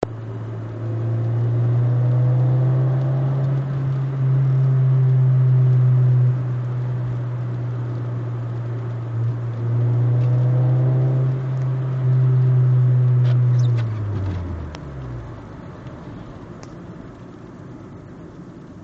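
A VW Golf's 2.0 four-cylinder engine heard from inside the car through a 2.5-inch aftermarket exhaust with a Maximus Storm performance muffler, giving a loud, deep, steady drone. The car pulls up through the revs twice, then the drone drops in pitch and fades away about fourteen seconds in, leaving a quieter rumble.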